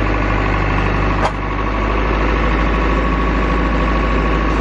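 Tractor engine running steadily, with one short sharp knock about a second in.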